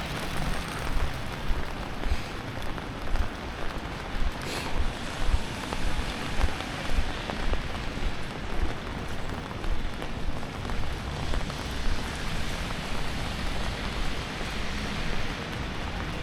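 Steady rain falling on city pavement: an even hiss with a low thump about every half second.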